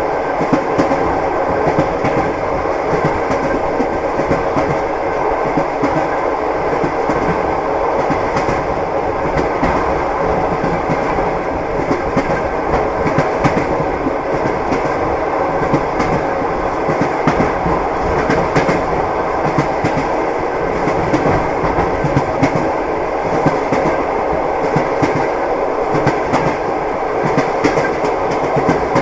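Train wheels running over the rails, heard from inside a moving railway carriage: a steady, even rumble with frequent sharp clicks from the wheels and rail joints.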